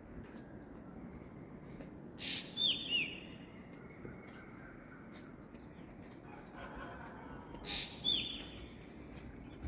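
A bird calling twice, about five seconds apart: each call is a short noisy note followed by two quick falling chirps, over a steady background hiss of outdoor ambience.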